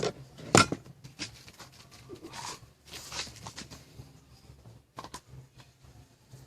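Scattered sharp clicks and knocks of objects being handled, the loudest about half a second in, with a few lighter ticks and brief scraping noises after.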